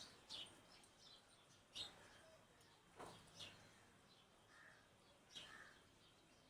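Birds giving faint, sparse chirps: short high calls that sweep downward, one every second or so.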